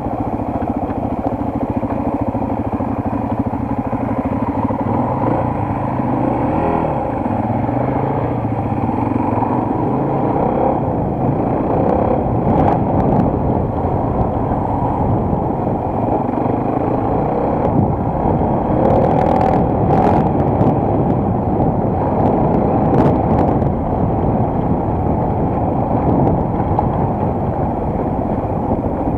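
Single-cylinder enduro motorcycle engine running while riding, its pitch shifting in the first several seconds. Several sharp knocks past the middle.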